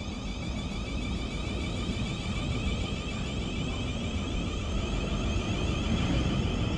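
A passenger train approaching the station, its low rumble slowly growing louder.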